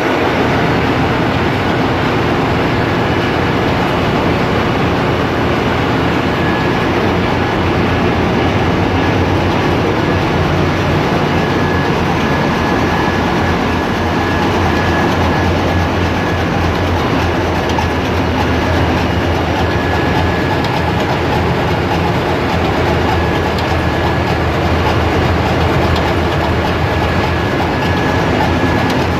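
Ship's engine room machinery running: a loud, steady din with a deep hum underneath and a faint steady high whine. It comes from the diesel main engine and generators at work.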